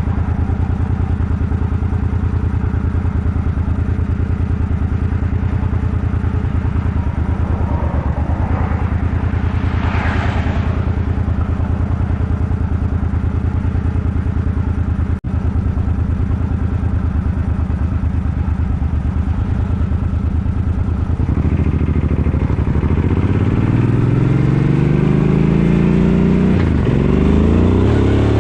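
Suzuki Boulevard M50's 805 cc V-twin engine running at a steady cruise. About three-quarters of the way through it accelerates, its pitch rising and dropping back several times as it shifts up through the gears.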